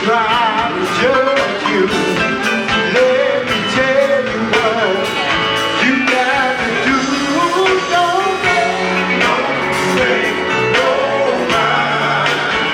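Gospel vocal group singing with band accompaniment over a steady drum beat.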